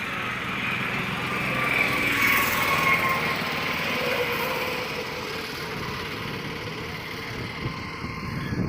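Diesel engine of a JCB backhoe loader running steadily while pushing a fishing boat, its pitch easing down slightly about two to four seconds in.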